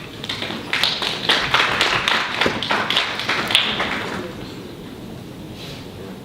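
Brief scattered applause from a small audience: a quick run of hand claps that builds, then dies away about four seconds in.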